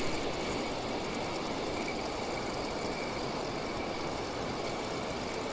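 Steady rushing of water pouring over a weir, an even noise that holds level throughout.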